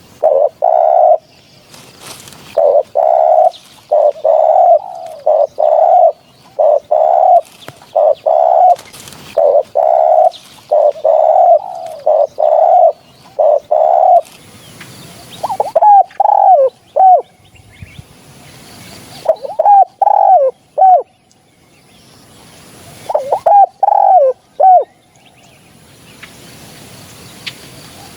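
Spotted doves cooing. A fast, even run of repeated coos lasts for about the first half, then short phrases of three or four coos come every few seconds.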